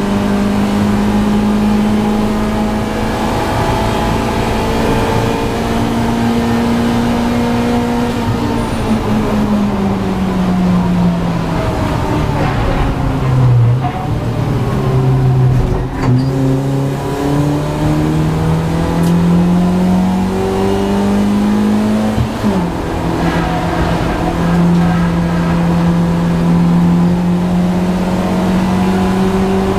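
BMW Compact race car's engine heard from inside its stripped cabin, running hard at a steady note, then falling smoothly for several seconds as the driver lifts off and the car slows, then climbing back as it accelerates. About 22 seconds in the note breaks briefly, then holds steady again.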